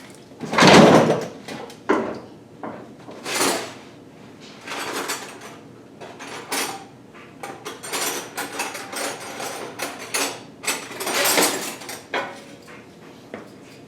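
Hand tools being sorted through while looking for a wrench: metal wrenches clinking and clattering, with a drawer-like slide or knock about a second in, the loudest sound.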